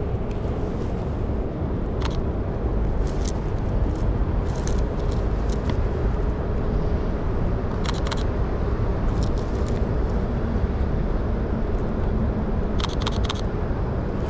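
Steady low rumble of city traffic and street noise, with a few short sharp clicks scattered through and a quick run of several clicks near the end.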